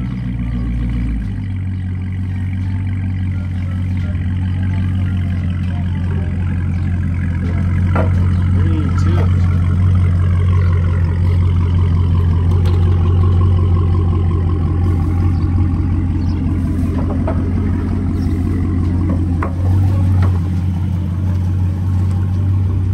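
A car engine running steadily with a deep, constant low drone that holds throughout.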